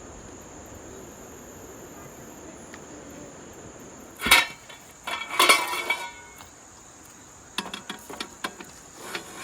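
Steady high-pitched chorus of crickets or other insects. A loud sharp clatter comes about four seconds in, more clattering follows a second later, and a run of quick light knocks comes near the end.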